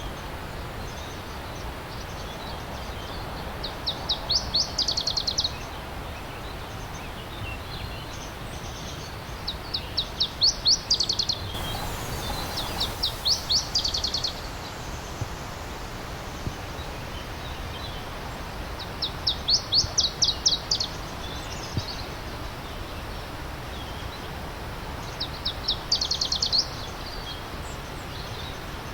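A songbird repeating a short, high trill of rapid, evenly spaced notes, about five times, over the steady rushing of a brook.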